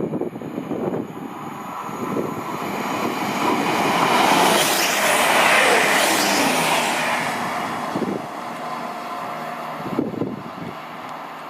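A train passing through at speed: rail and wheel noise builds to a peak about five seconds in, with a whine that drops in pitch as it goes by, then fades away. Wind buffets the microphone at the start.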